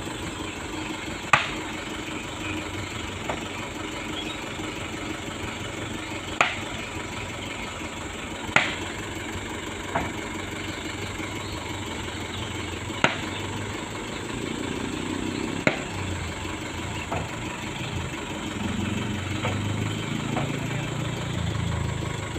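Truck engine running steadily, with sharp knocks or clanks every few seconds. In the second half the engine grows louder and deeper.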